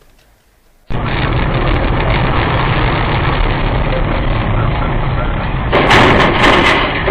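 Steady road and engine noise of a vehicle in traffic as picked up by a dashcam, starting abruptly about a second in, with a louder, harsher burst of noise lasting about a second near the end.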